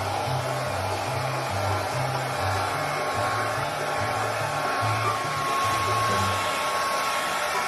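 A steady rushing noise with a thin constant whine, like an electric blower running, over background music with a low bass line stepping between a few notes.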